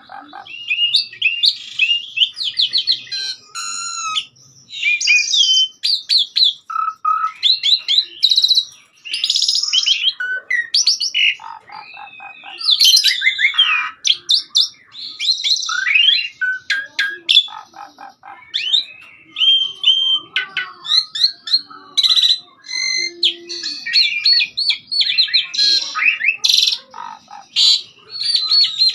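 Pied starling (jalak suren) in full song: a long, busy run of varied whistles, chattering notes and fast rattles, with only brief pauses between phrases.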